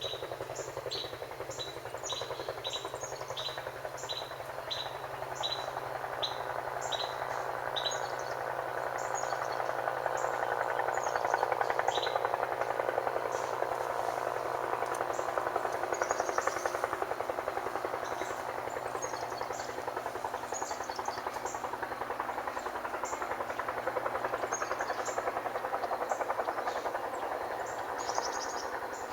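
A small songbird chirping over and over, at first about two short high chirps a second, then more irregularly, over a steady rushing background that swells in the middle and eases off.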